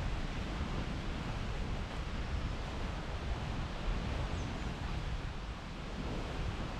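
Wind buffeting the chest-mounted GoPro microphone over a steady outdoor rushing, with one faint high chirp about four seconds in.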